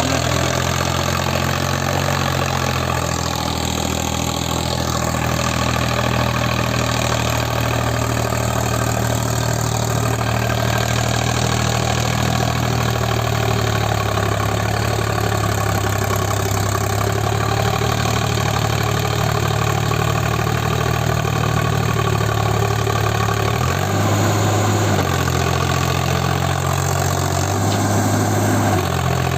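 Sonalika 50 hp 4WD tractor's diesel engine running steadily at low revs, its pitch shifting briefly twice near the end.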